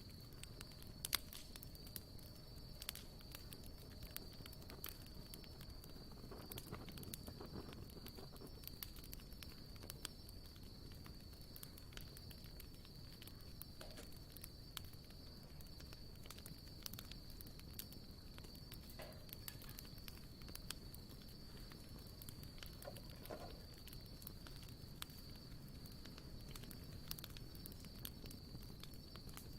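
Wood campfire crackling softly, with irregular small pops and one sharper pop about a second in. A steady high-pitched whine runs underneath.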